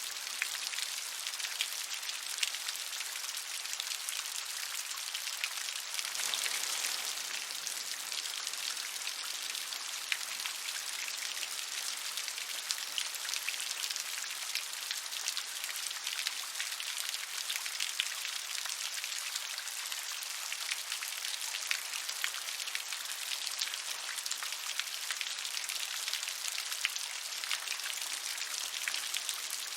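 Steady rain falling: a dense patter of individual drops over an even hiss, swelling briefly about six seconds in.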